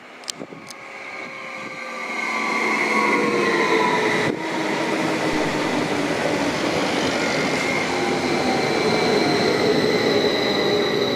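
A train running past close by, growing louder over the first few seconds and then holding steady. Several whining tones sink slowly in pitch through it.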